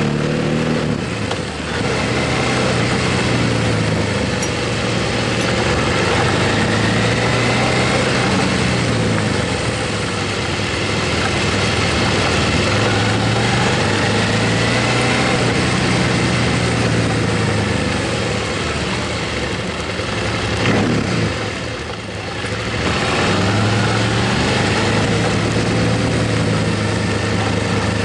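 Motorcycle engine running while riding, its pitch slowly rising and falling with the throttle, over steady wind rush. The engine note drops off briefly twice, about a second and a half in and again about 22 seconds in, as the throttle is eased.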